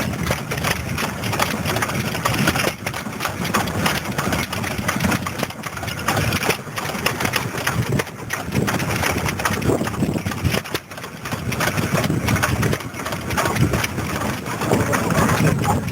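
Vintage stationary engines running steadily, a continuous mechanical din of firing strokes.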